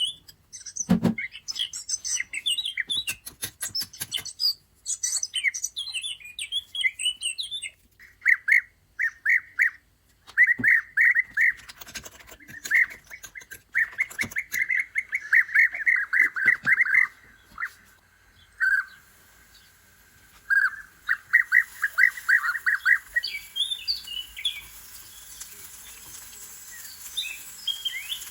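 Small birds chirping, then singing long, rapid trilled runs through the middle, with a few sharp clicks or knocks scattered through.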